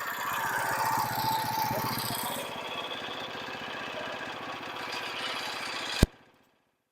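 Portable sawmill's small gasoline engine running steadily with a fine, even pulse. About six seconds in it ends in a sharp click and the sound cuts off suddenly to silence.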